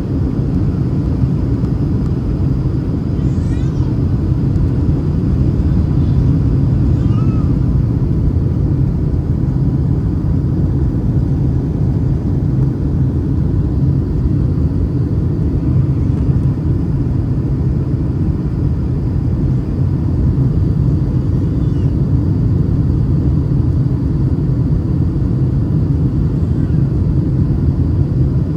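Steady cabin noise of a Boeing 737-800 in flight, heard from a window seat over the wing: a loud, even rush of airflow and engine noise with a faint steady whine.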